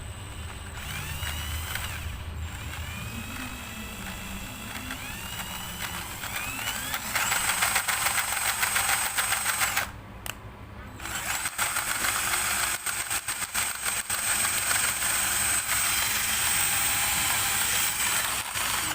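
A small power tool running at workshop level in two long runs, with a short break about ten seconds in. Before it, for the first few seconds, there are fainter high whistling glides.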